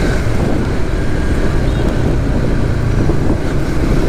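Steady wind noise on the microphone of a moving Suzuki GSX-S150 motorcycle, over the bike's engine and road noise.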